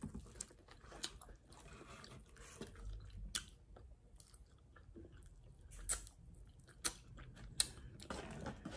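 A person chewing a mouthful of grilled cowboy steak, close to the microphone: faint wet mouth sounds with a few short, sharp clicks scattered through.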